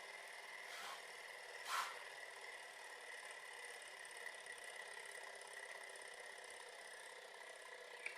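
Small two-cylinder Stirling engine model running with a faint, steady whir and light rattle from its linkage. Two brief noises come about one and two seconds in, the second louder.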